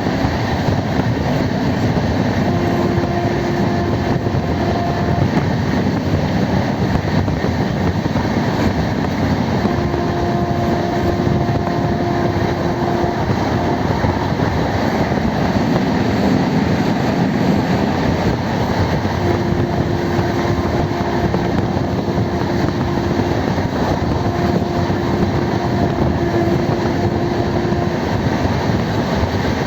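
Passenger train on the move, a steady loud running noise of the train. A single steady tone sounds four times over it, each time for a few seconds.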